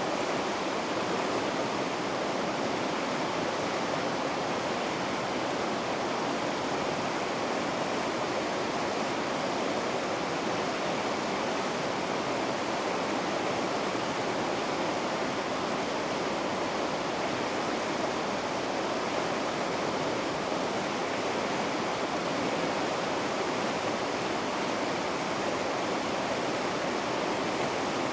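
Rushing water of river rapids, a steady, unbroken wash of noise with no change in level.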